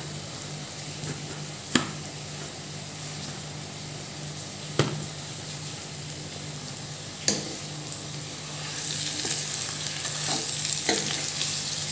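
Tamarind pieces sizzling in a little hot oil in an iron karahi as they are stirred with a metal spoon. The spoon clinks sharply against the pan three times, and the sizzle grows louder in the last few seconds.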